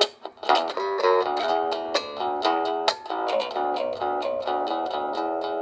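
A plucked string instrument played in a quick run of notes and chords, each with a sharp attack; near the end the last chord is left to ring and fades away.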